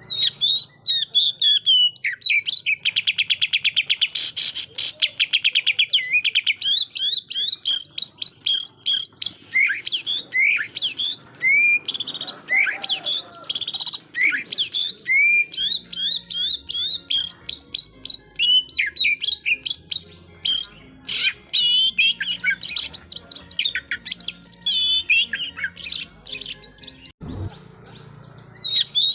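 Oriental magpie-robin (kacer) singing a loud, fast, varied song of whistles and chirps, with a rapid rattling trill a few seconds in and a brief pause near the end. These are the 'shooting' phrases of an aggressive male, the kind used to provoke rival kacers.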